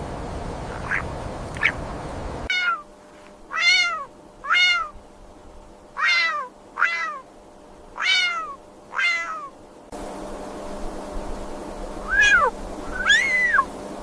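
An animal giving a series of short, arching meow-like calls, about nine in all, several in quick pairs. A steady background hiss drops away while most of the calls sound and returns for the last two.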